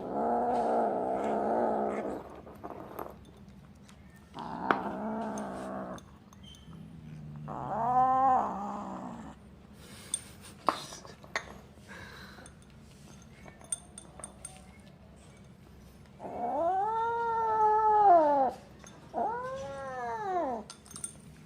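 Kitten growling over its dry cat food while it eats: two steady growls, then three long rising-and-falling yowling calls, with small clicks of chewing kibble in between.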